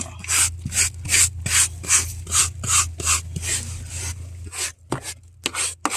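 Rhythmic back-and-forth scrubbing on the car's carpet, about two and a half strokes a second, becoming shorter and uneven near the end, over a steady low hum.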